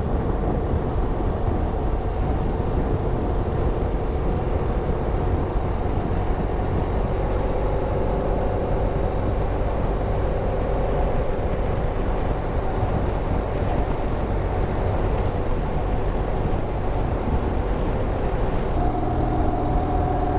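BMW R1200GS Adventure's boxer-twin engine running at a steady cruise under way, over a constant low rumble of road and wind noise. Near the end the engine's pitched note comes through more clearly.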